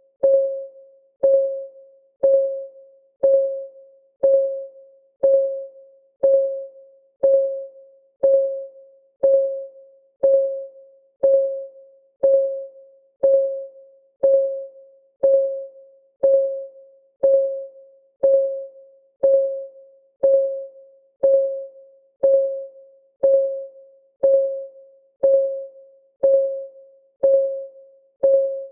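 Countdown timer's clock ticking sound: a short pitched tick about once a second, each starting sharply and fading quickly, perfectly even in pace and loudness.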